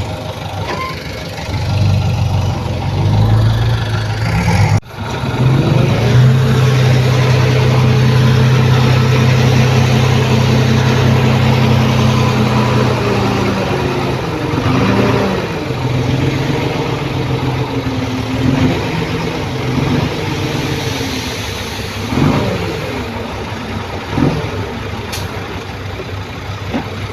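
Heavy-equipment diesel engine running under load. It cuts out for an instant about five seconds in, runs at a steady pitch for several seconds, then rises and falls in pitch repeatedly as it is worked.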